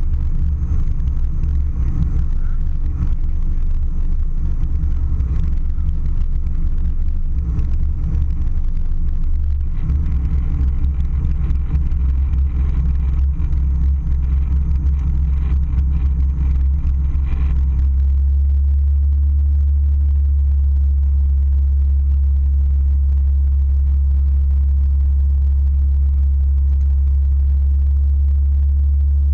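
Airliner cabin noise: a loud, steady low rumble of engines and airflow. About two-thirds of the way in, the rougher, fluttering noise drops away and it settles into a smooth, even hum.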